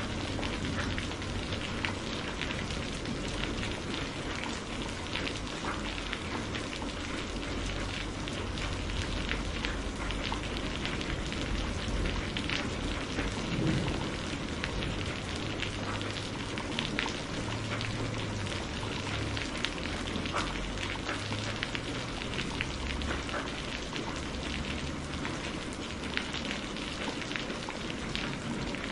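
Steady rain hissing, with a wood fire crackling in many small sharp pops and a low rumble coming and going underneath.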